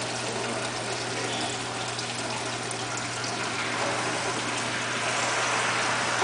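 Reef aquarium water circulating: a steady rush of moving water over a steady low hum, growing a little louder in the second half.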